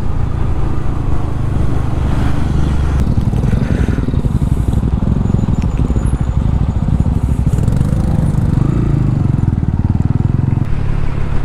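TVS Ronin's 225 cc single-cylinder engine running steadily as the motorcycle rides, with road and wind noise.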